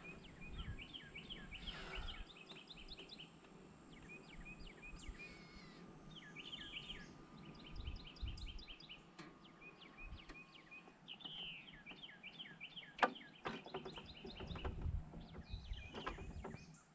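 Songbirds singing in repeated short phrases of quick high notes, over a low rumble of wind on the microphone. A sharp knock about thirteen seconds in is the loudest moment, with a few lighter knocks after it.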